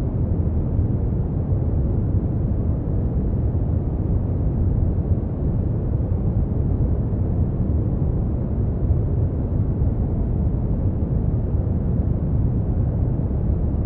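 Steady brown noise: an even, deep rumbling hiss, strongest in the bass and fading out toward the highs, with no change or events.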